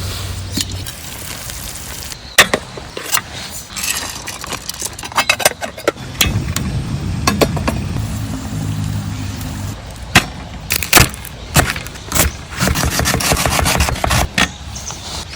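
Cooking and food-handling sounds: a string of irregular sharp knocks and clicks of utensils and cookware, with a low rumble in the middle and a short stretch of dense rustling or scraping near the end.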